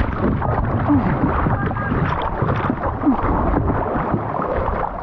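Water noise and wind buffeting on a kayak-mounted action camera, heavy and rumbling at the low end, with a short falling tone about a second in and again near three seconds.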